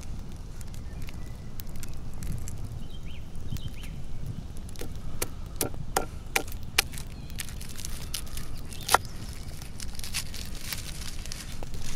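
Kitchen knife cutting on a wooden cutting board, a string of sharp, irregular taps starting about halfway through. A wood campfire crackles over a low steady rumble.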